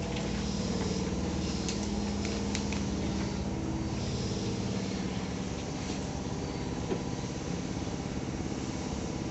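Tobu 10000 series electric train car standing still, its onboard equipment and ventilation fans giving a steady hum heard inside the car, with a couple of faint clicks a second or two in.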